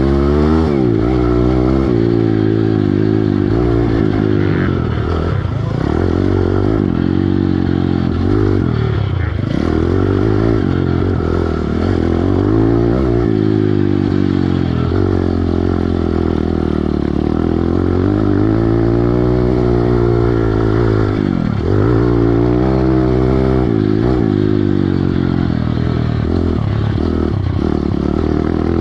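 Piranha 140 pit bike's single-cylinder four-stroke engine under riding load, its pitch rising and falling over and over as the throttle is opened and rolled off, with a few sharp drops in revs.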